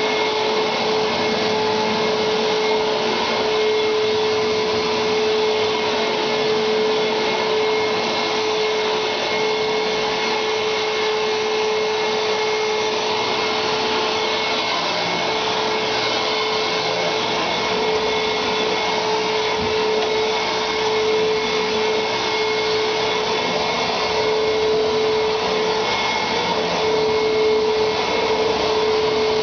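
Vacuum cleaner running steadily, a constant motor hum with a steady whine under the rush of air.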